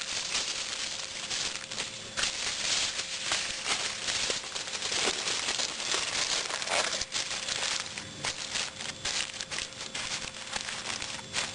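Aluminium foil being crinkled and folded by hand, a run of irregular crackling rustles as a foil food pack is wrapped.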